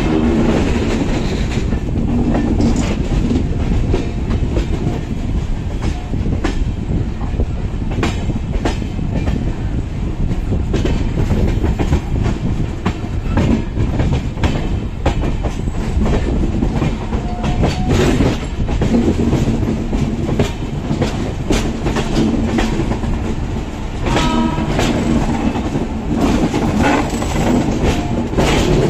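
Passenger train coaches running at speed, heard from an open door: steady rumble and rush of air, with the wheels clattering irregularly over rail joints and points.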